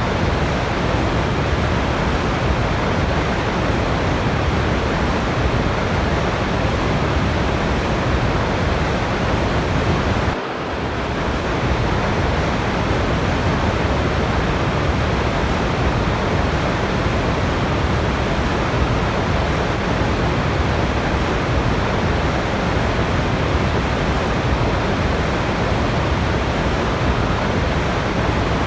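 Waterfall: a steady, dense rush of falling water, like white noise. About ten seconds in it briefly drops and swells back.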